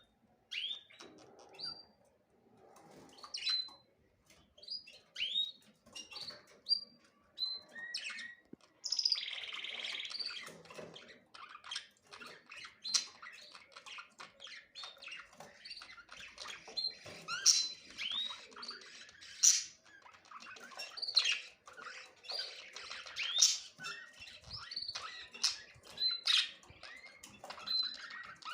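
Small birds chirping: separate short chirps for the first eight seconds or so, then a dense chatter of many overlapping chirps and squawks.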